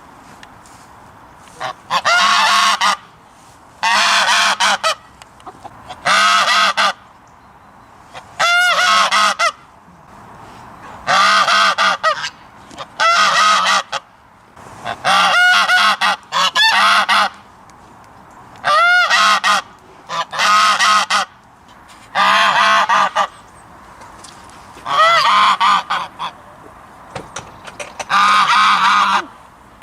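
A goose honking repeatedly: about a dozen loud, separate honks, each roughly a second long, coming every two seconds or so.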